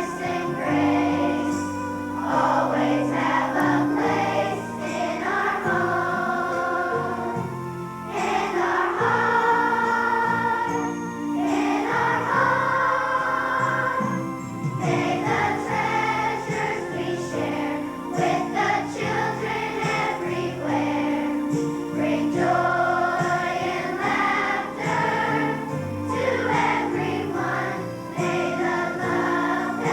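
Children's choir singing a song with instrumental accompaniment of steady held chords.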